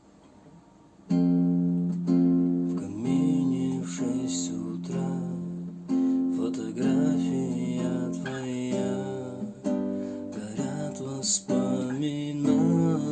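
Acoustic guitar playing a chord intro, picked and strummed, starting about a second in.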